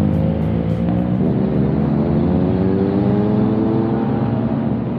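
Motor vehicle engine pulling under acceleration, its pitch rising slowly and steadily.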